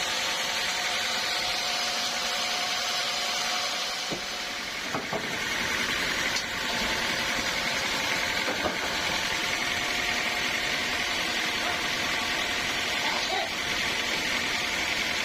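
Sawmill machinery running steadily with a loud mechanical hum and hiss, dipping briefly about four seconds in.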